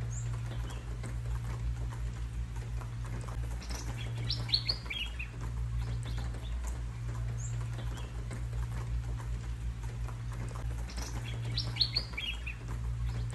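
Birds chirping in two quick bursts of short falling notes, about four seconds in and again near the end, over a steady hiss of rain and a low steady hum.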